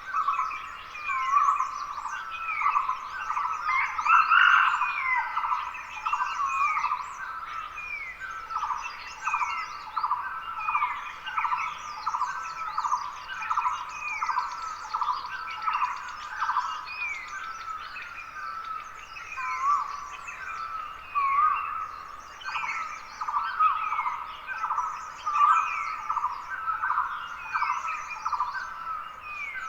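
Dawn chorus of many wild forest birds calling over one another: dense, repeated short hooked notes, with higher twittering above them.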